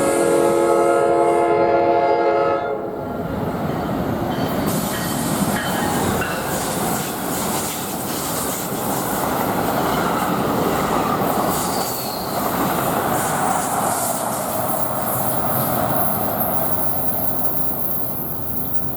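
NJ Transit commuter train sounding its horn, a chord of several steady tones that cuts off about three seconds in. The train then keeps passing with a steady rumble and the clatter of wheels over the rail joints.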